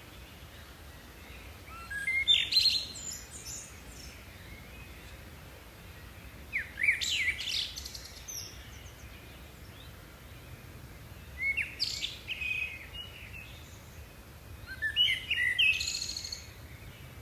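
A songbird singing short phrases of quick whistled notes, four times about four to five seconds apart, over faint steady background noise.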